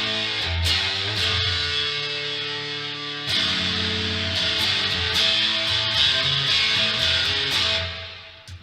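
Yamaha Pacifica electric guitar strumming chords that ring on, with a fresh strum about three seconds in, fading away near the end. The bridge humbucker is split to a single coil, giving a thin tone.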